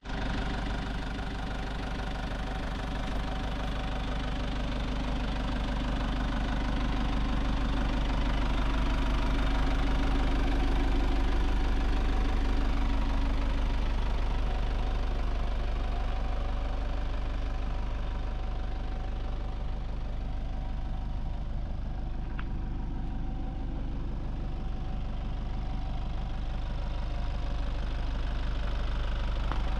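Diesel engine of a 2001 Nissan Cabstar 106Le light truck running steadily, getting a little louder toward the middle and then easing back.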